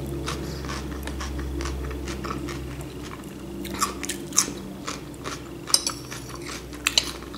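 Close-up eating sounds: wet chewing with small clicks, then crisp crunches about four seconds in and again near the end as a fresh cucumber slice is bitten and chewed.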